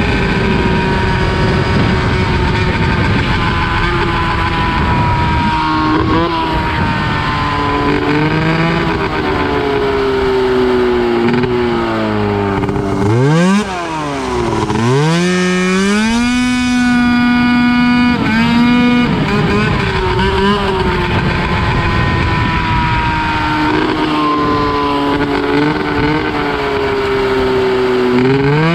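Go-kart's 580cc two-stroke snowmobile engine (from a 1996 Arctic Cat) running hard, its pitch rising and falling as the throttle changes. About halfway through the revs drop sharply twice and climb back, then hold high and steady for a few seconds.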